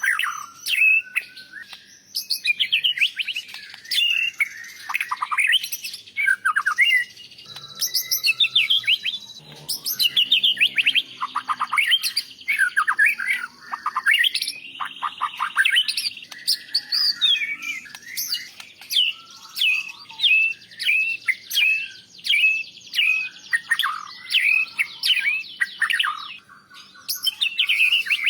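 White-rumped shama (murai batu) singing a long, varied song of rich whistles, quick down-slurred notes and rapid trills, phrase after phrase with only brief pauses.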